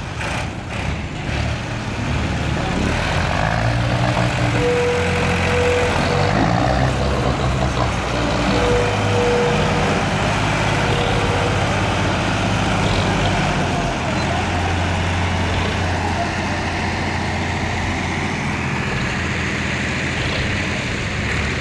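Tractor engine running steadily under way, a continuous low engine note.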